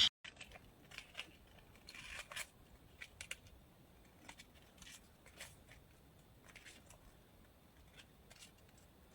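A few faint, scattered clicks and ticks, most of them in the first few seconds, then near silence.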